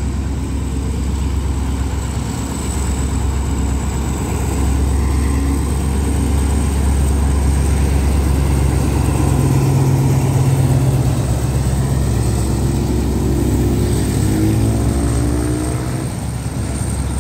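Diesel-electric locomotive hauling a passenger train past: a low engine rumble that builds to its loudest about halfway through as the locomotive goes by, then the carriages rolling along the rails.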